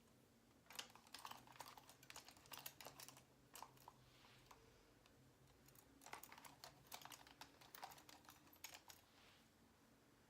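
Faint quick clicks and crackles in two short bouts, about a second in and again around six seconds in.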